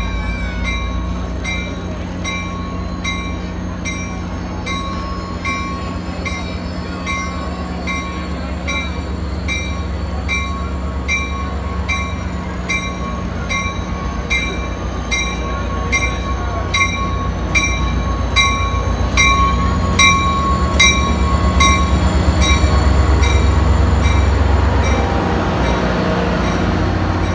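Diesel locomotive of a passenger train rumbling as it rolls slowly past, growing louder as it draws level, with a bell ringing steadily about twice a second throughout. A thin high squeal from the wheels runs above it.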